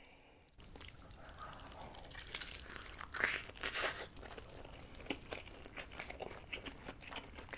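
Close-miked bite into a giant homemade meat dumpling together with its wrapper, the loudest clicks and tearing noises about two to four seconds in, then chewing with small wet mouth clicks.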